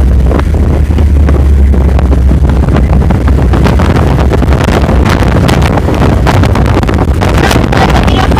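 Loud, distorted wind buffeting on the microphone over the low, steady rumble of a vehicle driving off-road, with frequent sharp crackles.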